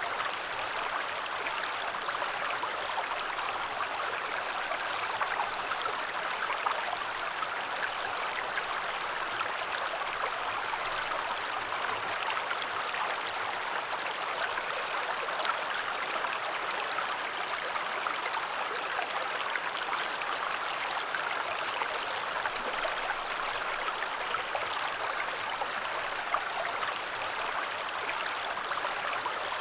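Mountain river flowing: a steady, continuous rush of water with no other events.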